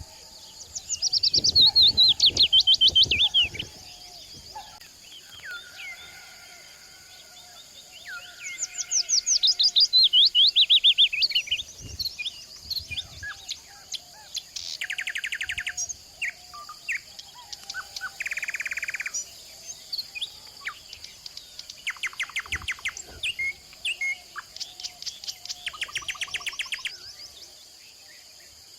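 Wild birds singing in the mountains. Two loud phrases of fast falling notes come about a second in and again around nine seconds in, followed by shorter rapid trills, over a steady high hiss.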